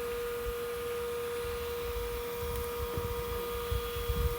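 Shop-vac bee vacuum motor running with a steady, even hum.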